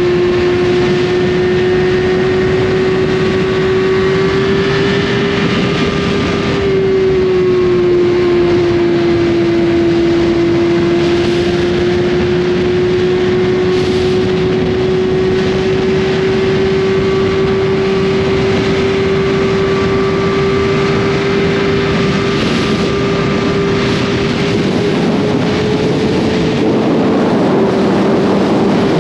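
2021 Suzuki GSX-R1000 inline-four with an Austin Racing slip-on exhaust, running at a steady cruise with its pitch held nearly constant: a slight drop about 7 seconds in and a gradual rise near the end. A steady rush of wind and road noise runs underneath.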